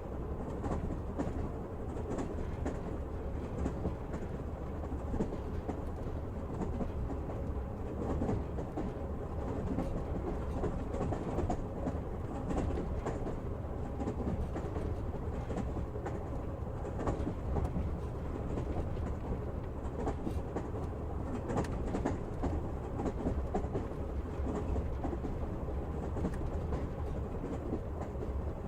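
Passenger train running along the track, heard from inside the carriage: a steady rumble of wheels on rails with faint scattered clicks of the wheels over the rails.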